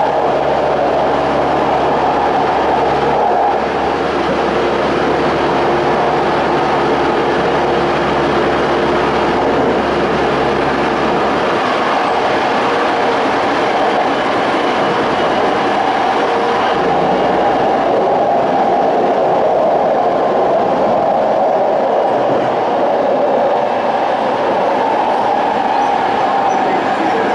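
Toei 5300-series electric train with a Hitachi-built Mitsubishi GTO inverter, heard from inside the car while running between stations: a steady rumble of wheels on rail. A low hum drops out about eleven seconds in.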